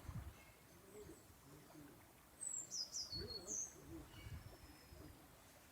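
Faint forest birdsong: a small bird gives a short burst of high chirps and trills about halfway through. Low, wavering cooing calls come and go beneath it, with a few soft low thumps.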